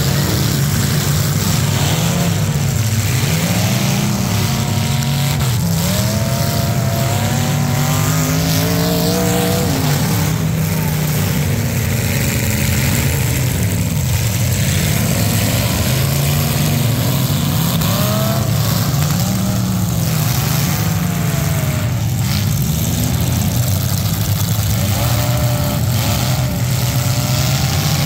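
Several demolition derby car engines revving, their pitch rising and falling and overlapping one another without a break.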